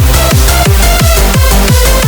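Happy hardcore track: a fast, steady kick drum about four beats a second, each kick dropping in pitch, under sustained synth chords.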